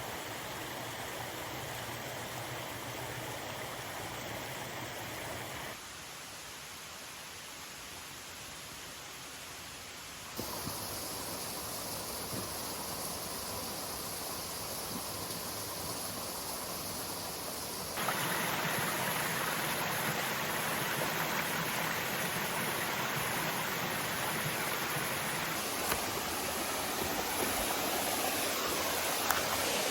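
Rainforest creek water running over rocks and small cascades, a steady rushing hiss that jumps abruptly in level and tone three times, about six, ten and eighteen seconds in.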